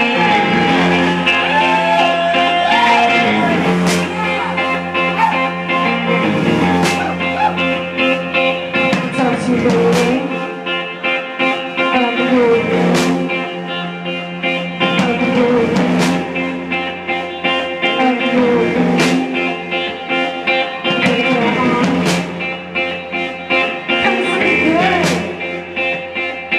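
Live blues-rock band playing: electric guitar and drums, with strong accents about every three seconds.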